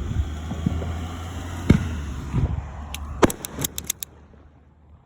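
Fireworks going off: a sharp bang about a second and a half in, then a louder one just past three seconds amid a quick run of crackles. A steady low rumble lies under it all and stops about four seconds in.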